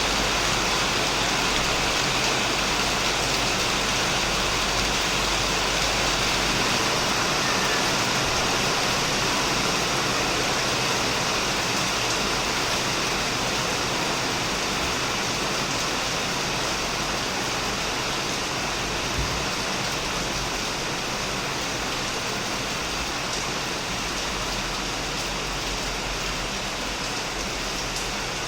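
Heavy rain falling steadily on a shed and the plants around it, an even hiss of many drops that grows slightly softer near the end.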